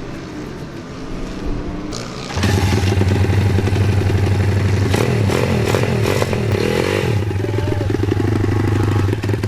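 Pit bike engine running steadily close by. A fainter steady hum gives way about two and a half seconds in to a much louder, even engine note that holds to the end, with a few clicks and clatters over it.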